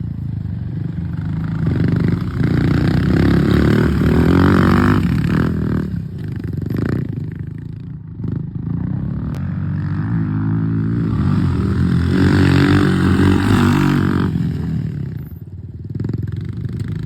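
Pit bike engines running at high revs, the pitch rising and falling with the throttle, swelling loudest twice as bikes pass close.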